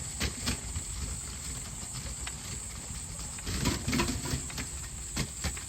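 A steady high-pitched hiss with scattered short clicks and knocks, and a busier patch of knocking and rattling about three and a half to four seconds in.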